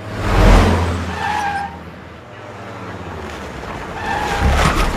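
A truck's engine surging with tyres squealing, in two bursts: a loud one about half a second in, with a brief screech after it, and another near the end.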